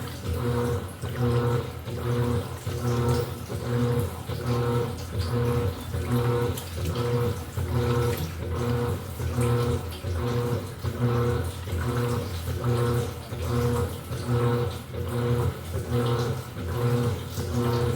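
Electrolux LED14 top-loading washing machine agitating its load. The motor hums in even pulses about once a second, and water sloshes with each stroke.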